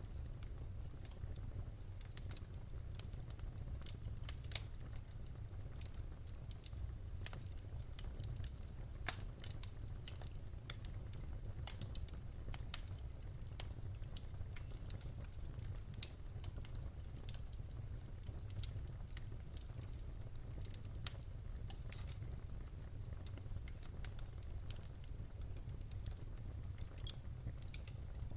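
Wood fire in a fireplace crackling, with irregular sharp snaps and pops of burning logs over a steady low rumble of the flames; a few louder pops stand out.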